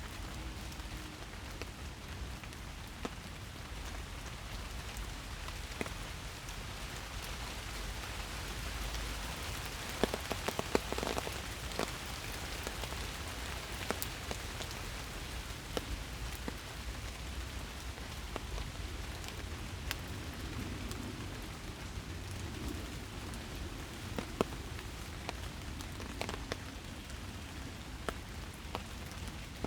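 Steady rain falling in woodland, an even hiss with scattered louder drops tapping close by, a brief cluster of them about ten seconds in.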